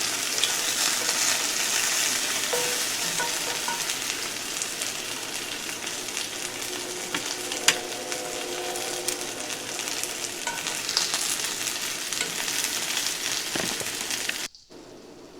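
Chicken pieces sizzling in a hot skillet, a steady crackling fry with a few sharp clicks against the pan. The sizzle cuts off abruptly near the end.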